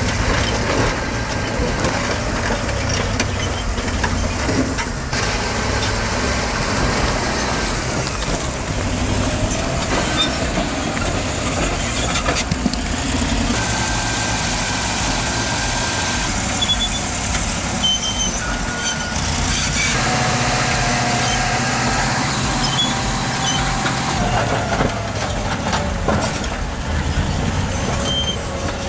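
Heavy bulldozer diesel engines running under load, with some thin high-pitched squealing from the machinery. The sound changes abruptly every few seconds.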